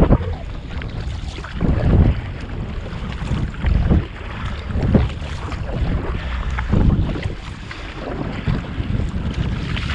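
Paddling an inflatable kayak at sea: water splashing and slapping with a surge about every one and a half to two seconds, under wind buffeting the microphone.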